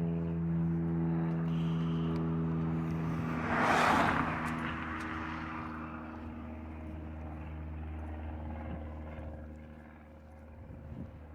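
A vehicle engine running at a steady speed, with a short rushing whoosh about four seconds in; the engine hum fades somewhat in the second half.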